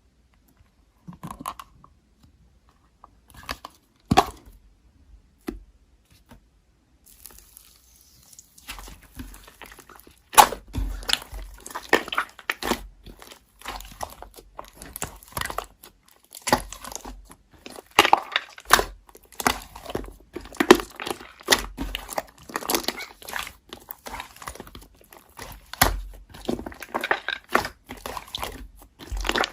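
Hands playing with slime: a few scattered squishes and pops at first, then near-continuous crackling and squelching from about ten seconds in.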